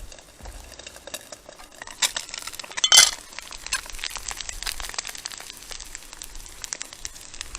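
Food sizzling and popping in a pan over a campfire, a steady crackle of small pops. A sharp clink comes about three seconds in, and a smaller one about two seconds in.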